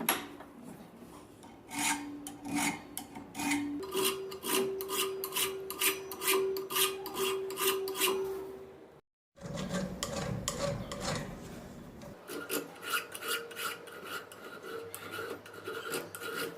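A hand file being pushed across a steel knife blank in a steady run of rasping strokes, with the steel ringing under them. There is a short break partway through, and then the filing carries on.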